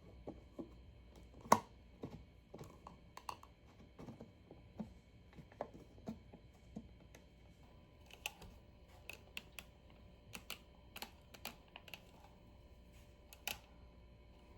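Irregular light clicks and taps of small hard objects being handled, with one sharp click about a second and a half in and a quicker run of sharper clicks in the second half.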